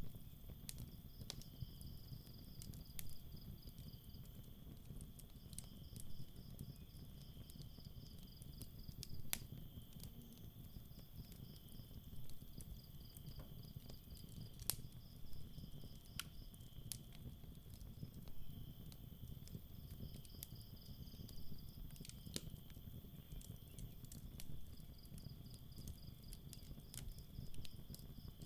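Campfire crackling with scattered sharp pops over a low rumble of the burning fire, against crickets chirping: one steady high trill and another that comes in pulsed runs of a few seconds.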